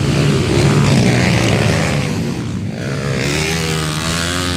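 Motocross bike engine running steadily, its pitch shifting slightly in the second half.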